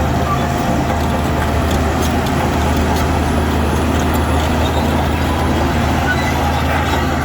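Heavy diesel engine of earthmoving machinery running steadily under load, with a constant low hum and a few faint knocks.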